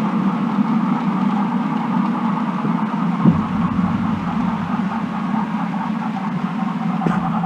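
OO gauge model train running along the layout: a steady hum of the locomotive's motor and wheels on the rails, with two short clicks, one about three seconds in and one near the end.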